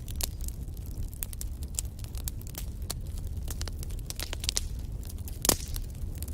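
Wood fire burning in a fireplace: a steady low rumble of flames with frequent irregular crackles and snaps, and one louder pop about five and a half seconds in.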